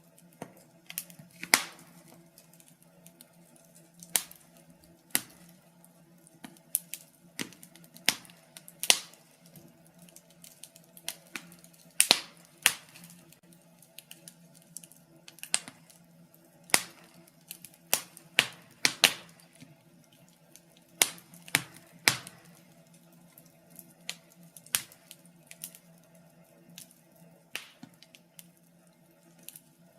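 Wood fire in a fireplace crackling, with irregular sharp pops and snaps every second or so, a few of them loud, over a steady low hum.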